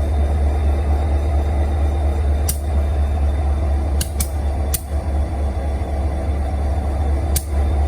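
Union Pacific SD40-2C locomotive's EMD 16-cylinder two-stroke diesel idling with a steady deep rumble. It gives five brief sharp pops at irregular intervals: two close together near the middle, one a little before, and one near the end.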